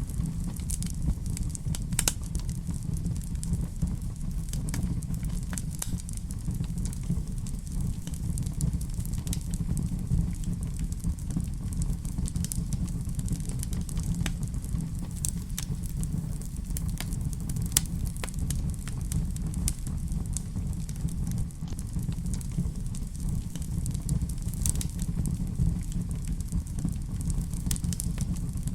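Fire burning in a fireplace: a steady low rumble of flames with scattered crackles and pops.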